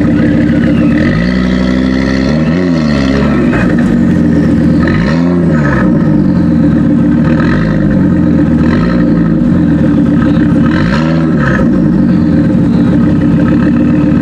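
Audi RS3's five-cylinder engine, breathing through a Milltek exhaust, blipped up from idle about five times a couple of seconds apart, each rev rising and falling quickly. Short crackles on the overrun follow some of the revs.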